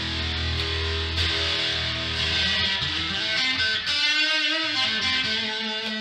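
HSS Yamaha Pacifica electric guitar played through an amplifier: sustained notes and chords, with a sweeping warble in the tone around four seconds in.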